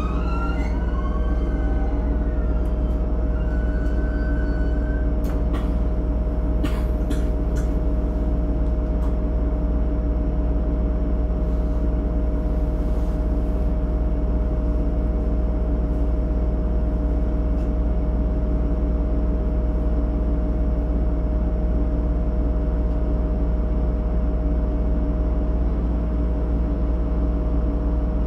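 Running sound of a JR East GV-E400 series diesel-electric railcar, heard from inside the front car: a steady drone of the diesel engine-generator and traction motors with rolling wheel noise. A few brief high whining tones in the first five seconds, and a few sharp clicks about five to seven seconds in.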